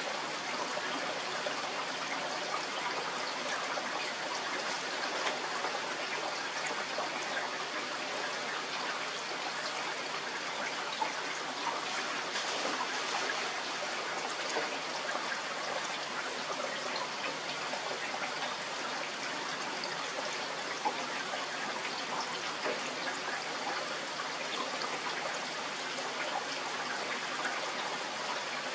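Steady rain falling, an even hiss of many small drops that does not change.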